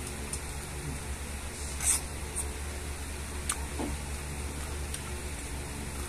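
A person biting and chewing ripe siniguelas (Spanish plums): a few short, wet mouth clicks and smacks, the loudest about two seconds in, over a steady low hum.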